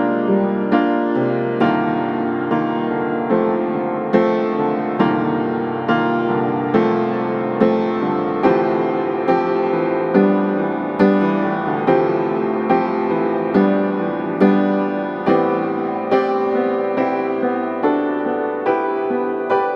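Background piano music, a slow instrumental with notes struck at a steady pace.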